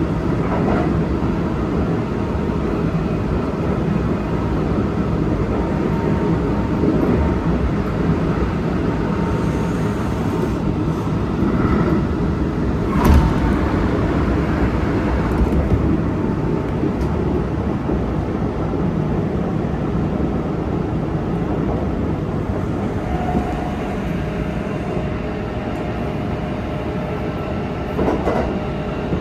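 Running sound inside a Kintetsu Osaka Line electric train with Hitachi GTO inverter drive, cruising between stations: a steady rumble of wheels on rail with a single sharp knock about thirteen seconds in.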